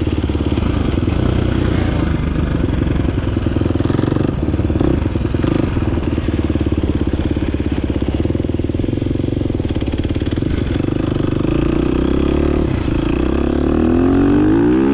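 Dirt bike engine running under way with a steady note, then revving up near the end.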